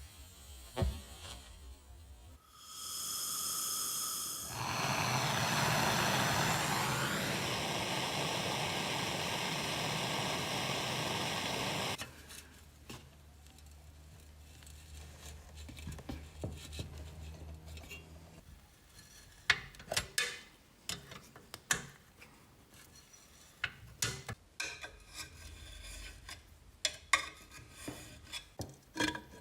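Workshop restoration work on motorcycle parts. A power tool starts with a brief whine and runs loud and rough for about eight seconds, then cuts off suddenly, leaving a low hum. Scattered sharp clicks and knocks of metal parts being handled follow in the last ten seconds.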